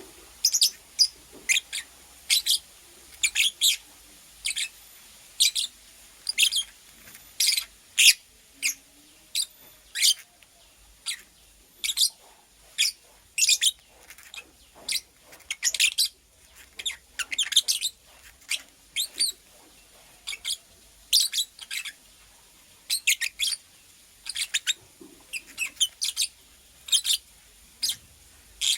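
Lovebird chirping: short, sharp, high-pitched chirps, often in quick pairs or threes, repeating irregularly about once or twice a second.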